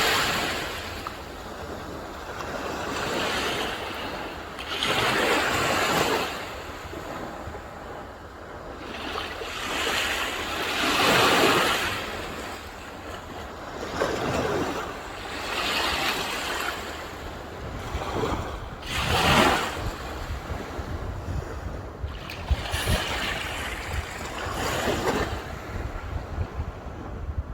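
Sea waves breaking on a shore, the surf swelling and falling away in a new surge every few seconds, over a low steady wind rumble on the microphone.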